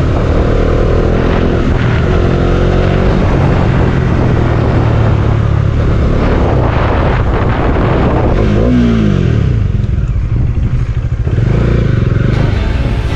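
Bajaj Dominar 400's single-cylinder engine running through its stock exhaust while the motorcycle is ridden at speed, heard from the rider's seat. The revs climb in the first few seconds, and about nine seconds in they fall away sharply as the throttle is closed, then the engine runs softer.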